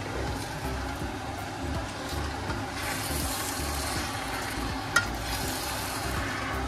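Mee goreng (fried noodles) sizzling in a hot frying pan while being tossed and stirred with a utensil. The sizzle grows louder about three seconds in, and the utensil gives one sharp clink against the pan about five seconds in.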